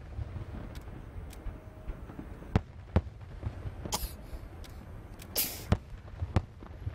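Aerial fireworks going off: several sharp bangs, with two hissing, crackling bursts about four and five and a half seconds in, over a low steady rumble.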